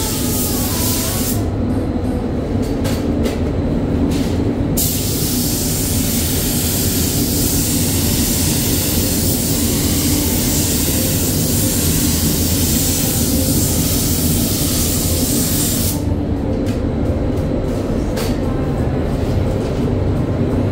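Paint spray gun hissing as it is triggered: a short burst at the start, then one long continuous pass of about eleven seconds starting about five seconds in. A steady low drone runs underneath.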